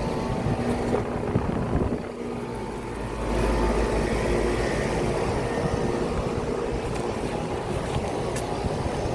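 Commercial air conditioning condensing units running in cool mode: a steady hum of compressors and condenser fans, with several constant tones and a low rumble that swells and eases.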